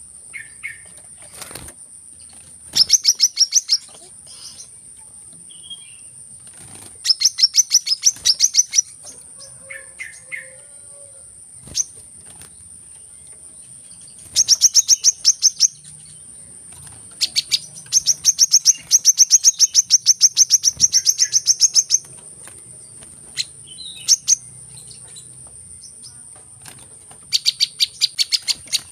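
Sunbird chirping in bursts of very rapid, high, evenly repeated notes, each burst lasting one to four seconds with pauses between, over a steady high thin whine.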